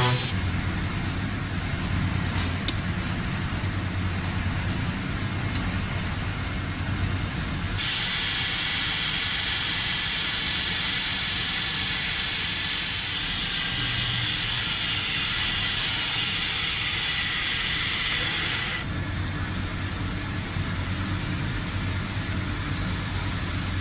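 Industrial machinery running with a steady low hum, then a loud hiss with a high steady whine that starts abruptly about eight seconds in and cuts off about eleven seconds later.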